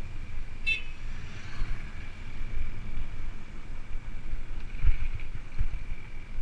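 Wind buffeting the microphone of a moving bicycle, a low gusty rumble, with a faint steady high whine behind it and a brief high squeak about a second in.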